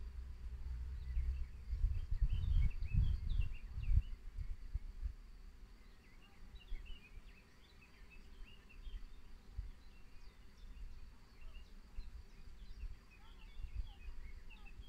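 Small birds chirping in short, quick calls, scattered and overlapping. Low rumbling gusts, like wind on the microphone, fill the first four seconds and then die down.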